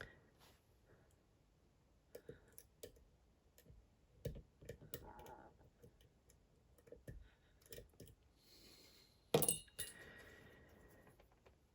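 Scattered light clicks and scrapes of a lock pick and tension wrench working the pins of a Dom IX Twinstar lock, with a louder clack a little over nine seconds in.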